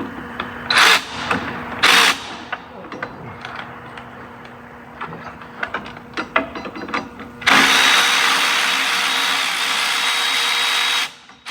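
Handheld power tool running on a 10mm fastener. It gives two short bursts in the first two seconds, then a steady whirring run of about three and a half seconds starting past the middle, with metallic tool clicks in between.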